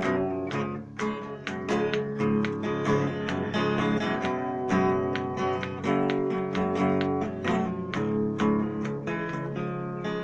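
Music: acoustic guitar strumming and picking, with dense chords and quick plucked notes.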